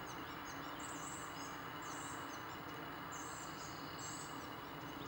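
Birds chirping in short, high phrases every second or so over faint steady outdoor background noise.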